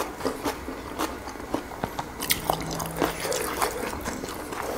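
Close-miked eating: biting and chewing of cooked vegetables and egg, with many short wet clicks and crisp smacks. A brief low hum comes about two and a half seconds in.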